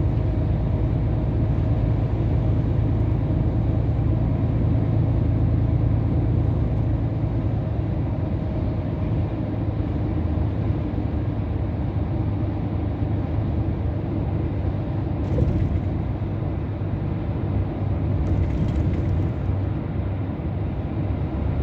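Scania R500 truck's V8 diesel engine running steadily at cruising speed, with a constant low drone and road rumble heard from inside the cab.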